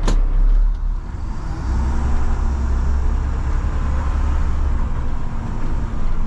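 Front-load garbage truck's diesel engine running, heard from inside the cab as a steady low rumble with a faint steady hum, after a sharp click right at the start.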